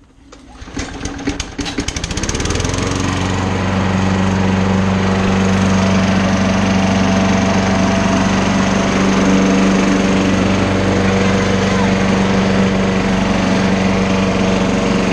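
Primed lawn mower engine cold-started with the pull cord: it fires irregularly for about two seconds, then catches and runs at a steady pitch.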